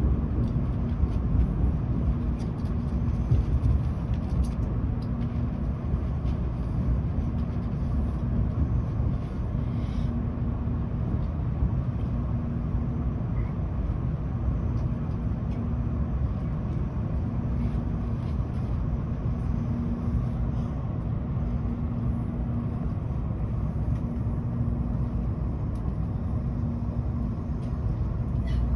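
Steady low rumble of a Tokaido Shinkansen train heard from inside the passenger cabin, with a faint hum that comes and goes every couple of seconds.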